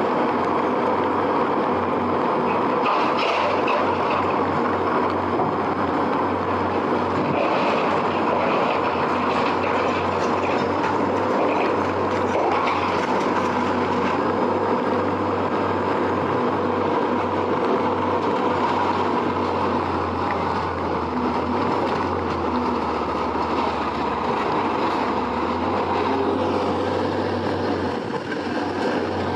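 Heavy diesel machinery running steadily with a low engine drone and scattered metallic rattling.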